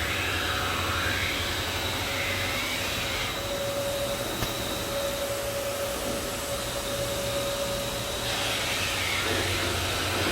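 Ski base stone-grinding machine running steadily, with a whine in its noise that grows stronger from about three to eight seconds in, as the ski base is run through for another flattening and structure pass.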